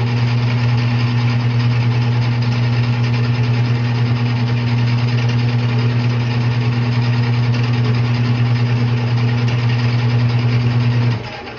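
Metal lathe running steadily with a low motor hum. It is switched off about eleven seconds in, and the sound drops away as it spins down.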